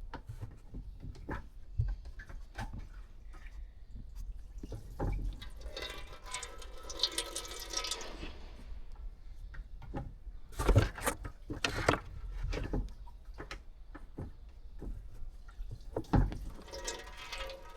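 Water and petrol sloshing and dripping as a foam sponge mops water out of a car fuel tank, with scattered clicks and knocks from the tools; the water in the tank is what the mechanic is clearing out of the fuel. A longer splash comes about midway and another near the end.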